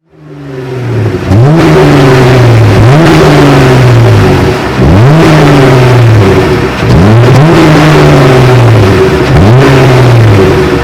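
Jeep Wrangler JL's 3.6L Pentastar V6 through an MBRP axle-back exhaust, being revved in neutral. It is blipped about five times, each rev jumping up quickly and then falling back slowly toward idle, fading in at the start.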